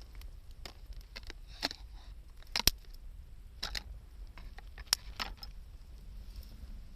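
Wood campfire crackling, with scattered small pops and two louder, sharper snaps, one a little under three seconds in and one about five seconds in.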